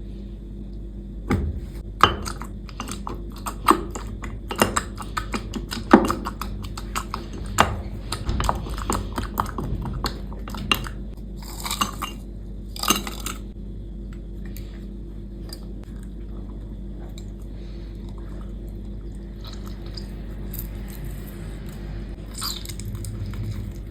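Kitchen handling sounds of drink-making: a fast run of sharp clicks, taps and clinks of glassware and utensils, with two short rushing sounds about twelve and thirteen seconds in. After that there are only a few quieter knocks near the end, over a steady low hum.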